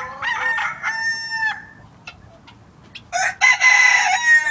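Roosters crowing: one crow at the start and a second, louder crow about three seconds in.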